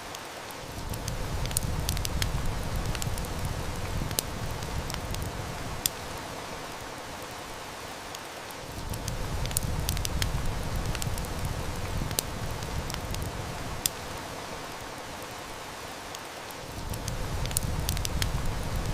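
Heavy rain falling steadily, with the snaps and crackles of a wood fire scattered through it. A low rumble swells in about a second in, drops away around eight seconds, and comes back twice.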